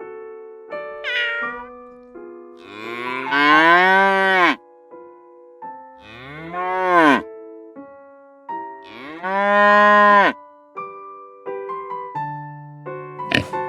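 An animal gives a short call about a second in, then three long drawn-out calls that each rise and then fall in pitch, over background piano music.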